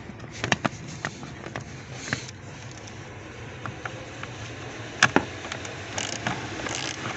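Scattered clicks and knocks from hand tools taking out the small screws that hold the blower motor under the glovebox, with one sharper click about five seconds in.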